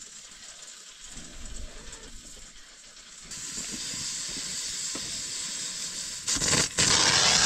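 Food frying in hot oil in a pan, a steady sizzling hiss that rises about three seconds in and grows much louder near the end.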